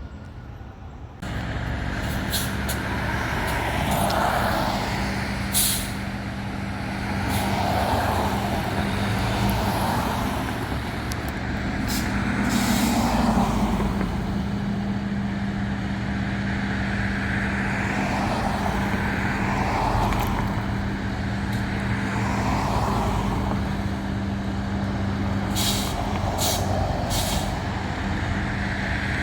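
Fire truck responding: its diesel engine runs steadily under a siren that rises and falls in a slow wail, with several short air-brake hisses. It all starts abruptly about a second in.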